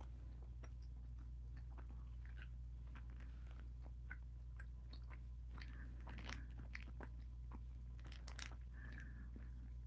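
Faint, scattered wet mouth clicks of people chewing gummy shark candies, over a steady low hum.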